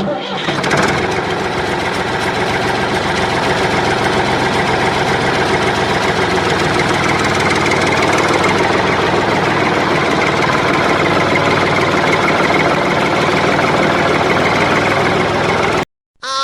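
Engine running steadily at idle with a knocking note, cut off abruptly near the end.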